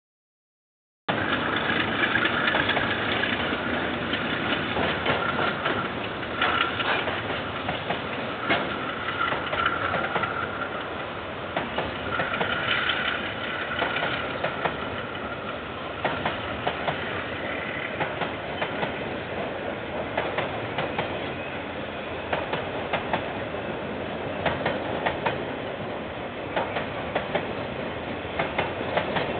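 Train passing, its wagon wheels clicking over the rail joints in a dense, continuous clatter; the sound cuts in abruptly about a second in.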